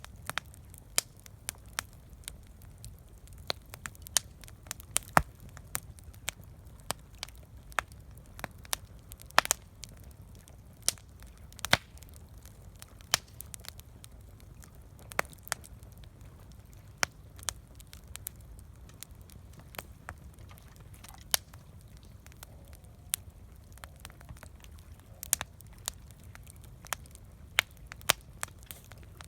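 Wood campfire crackling, with irregular sharp pops and snaps over a low, steady background.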